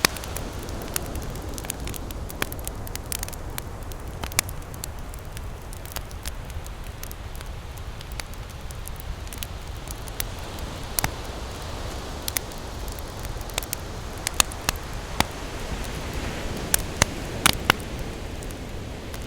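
Wood campfire crackling and popping irregularly, with a run of louder pops near the end, over a steady low rumble of ocean surf.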